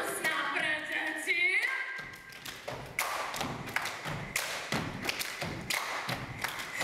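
A singing voice for the first two seconds or so, then a run of irregular thumps and knocks, typical of feet on a stage floor during a dance.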